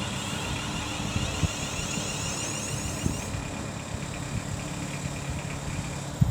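Class 350 Desiro electric multiple unit coming in at the platform. A high electric whine from its traction equipment stops about three seconds in, leaving a steady low hum.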